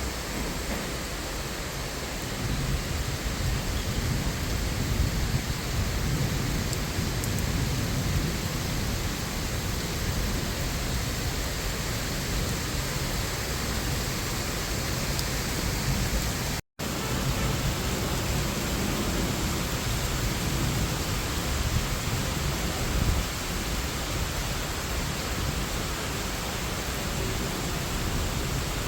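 Steady rain falling on leaves: a dense, even hiss with a low rumble underneath. The sound cuts out for an instant about halfway through.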